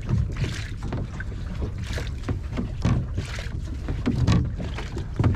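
Water splashing and sloshing irregularly against the kayaks, over a steady low rumble of wind on the microphone.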